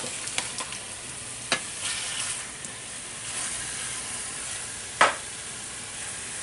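Strips of beef searing in hot olive oil in a pan, a steady sizzle, with two sharp knocks, about a second and a half in and again near the end.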